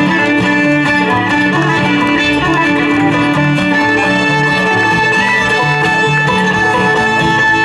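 A live acoustic string band playing an old-time fiddle tune: fiddle lead over plucked strings, with a steady bass-note rhythm.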